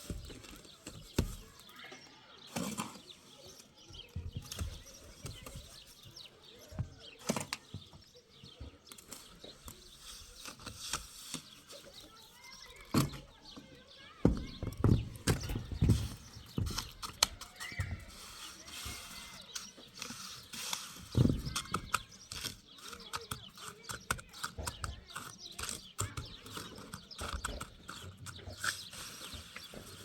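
Irregular knocks and clattering, with a run of heavier thumps in the middle.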